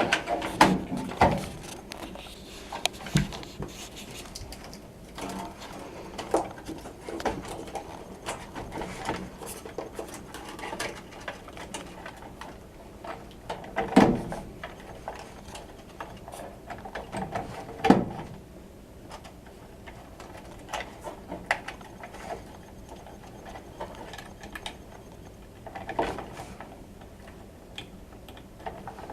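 Irregular clicks and knocks of small objects being handled, with two louder knocks about fourteen and eighteen seconds in.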